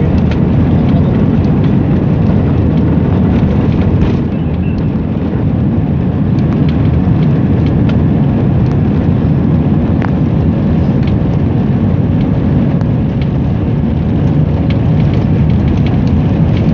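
Airliner cabin noise during takeoff: a loud, steady low rumble of engines and airframe, with a faint steady hum and a few light clicks.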